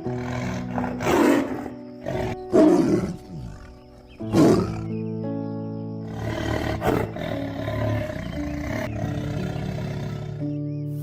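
Several loud animal calls, about four, over background music with sustained notes.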